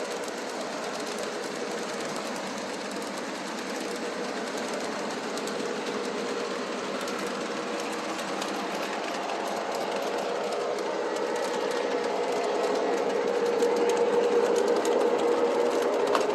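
Model train running on its track: a steady electric-motor hum with wheels rolling on the rails, growing louder over the last few seconds.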